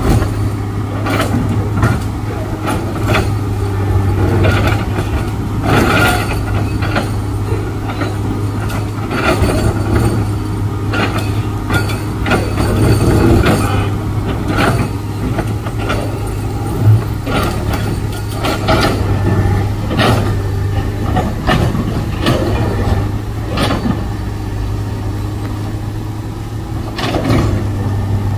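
Excavator's diesel engine running steadily under load, with irregular knocks and scrapes of the steel bucket teeth striking and breaking hard rock.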